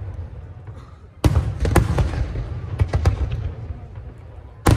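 Aerial fireworks shells bursting. One loud sharp bang comes about a second in, followed by a few smaller reports and a low rumble that lingers, then another loud bang right at the end.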